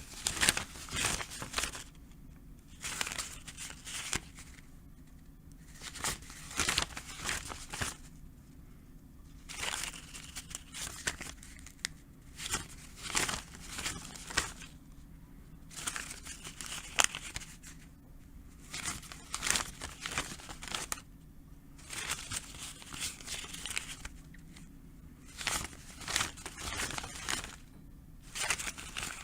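Paper banknotes being counted, flicked through in quick runs of crisp riffling that last about a second and a half and recur every three seconds or so, with short pauses between.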